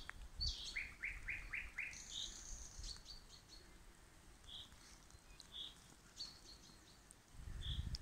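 Several songbirds singing: short high chirps and whistles, with a quick run of five descending notes about a second in. A low rumble comes up near the end.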